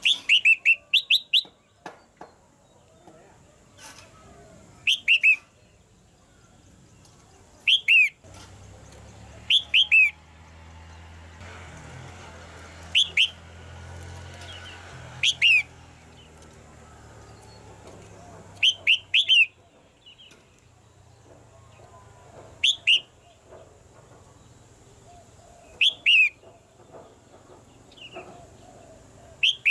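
Red-whiskered bulbul calling in short, sharp downward-sweeping notes, in clusters of two to four, every few seconds.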